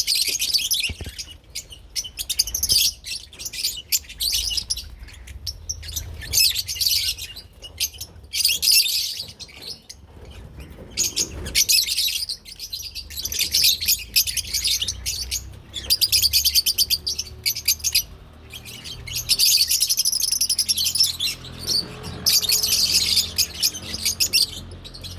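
Lovebirds (Agapornis) chattering: rapid, high, shrill chirps in bouts of a few seconds, with short pauses between them.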